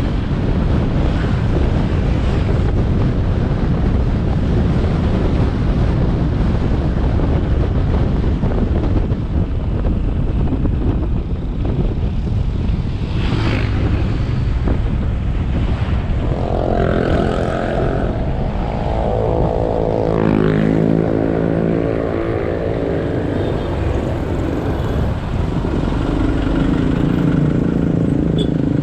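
Motorbike on the move: steady engine and road rumble with wind on the microphone. For a few seconds past the middle, an engine's pitch climbs and falls.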